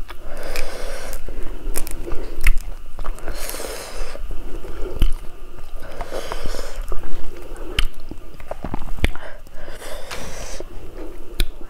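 Close-miked chewing and biting, with repeated sharp clicks and snaps as green stink bean pods are pulled apart by hand.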